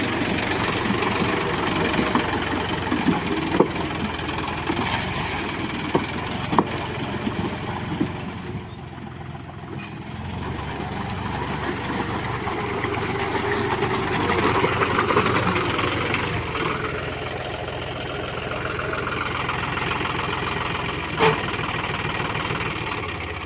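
Diesel tractor engine running, its sound swelling and easing several times, with a few sharp knocks.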